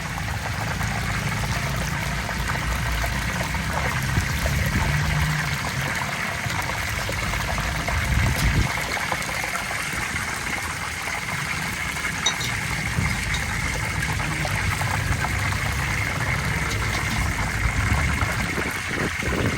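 Chicken deep-frying in a large pan of hot oil, a steady sizzle, with a low rumble underneath.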